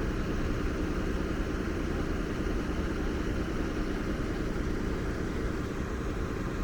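Steady low rumble of vehicles idling, with a faint constant hum.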